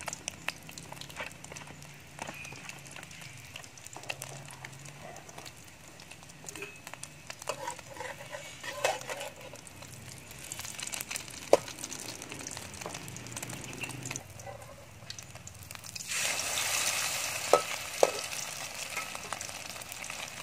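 Egg, fish paste and pork omelette frying in bubbling oil in a steel wok, a steady crackling sizzle with a few sharp clicks of a metal spatula against the wok. The sizzle grows much louder about three-quarters of the way through.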